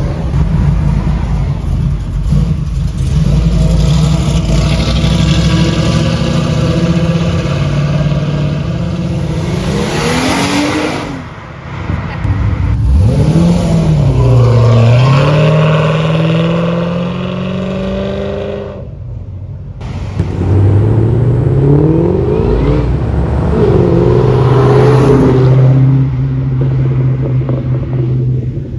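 Car engines running and revving, the pitch climbing and falling back several times. The sound drops out briefly about 19 seconds in.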